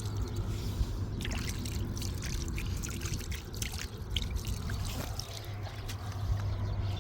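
Water trickling and splashing as clothes are washed by hand in spring water, with many short, irregular splashes.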